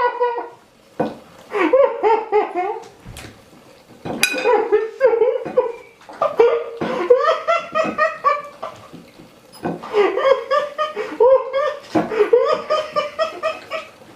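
A person laughing hysterically in high-pitched, pulsing fits, about six bouts of one to three seconds each with short breaths between.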